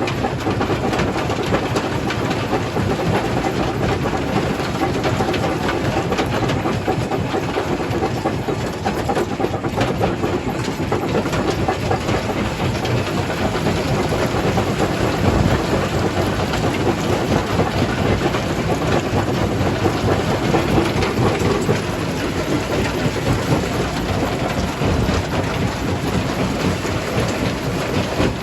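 Jaw crusher crushing stone: a steady, loud rumble with dense clattering and knocking of rock.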